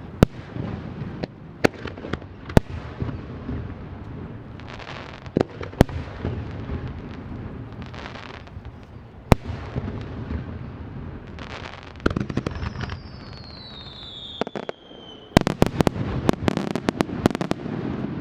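Fireworks display: sharp shell bursts at irregular intervals, with crackling stars between them. A falling whistle comes about two-thirds of the way through, then a rapid barrage of bangs near the end.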